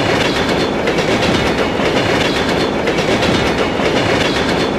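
Train running along the rails: a steady rattling rumble of wheels on track.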